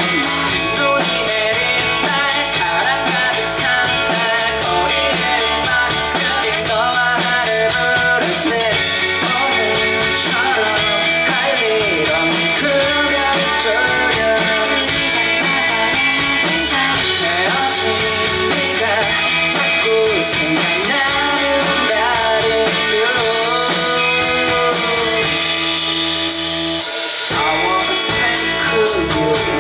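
Indie rock band playing a song live: guitars, bass and drums with a melody line weaving over them. Near the end the bass and drums drop out for a moment, then the band comes back in.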